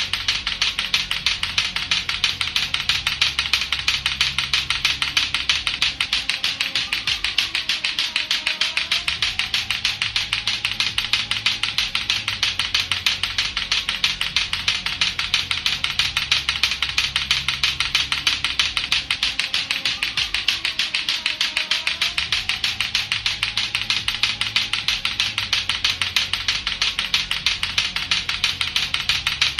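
Latto-latto clacker toy, its two plastic balls clacking together in a rapid, steady, unbroken rhythm.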